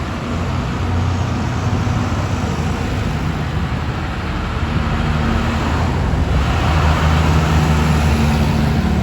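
Tractor engines running steadily on the road, with a low hum whose pitch shifts a little now and then over road noise.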